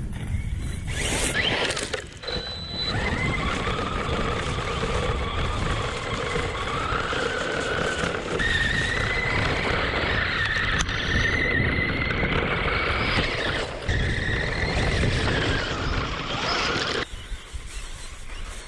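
Electric motor of a radio-controlled monster truck whining under throttle, its pitch climbing about halfway through and falling back later, over a dense rumble of tyres on pavement. The sound cuts off sharply near the end.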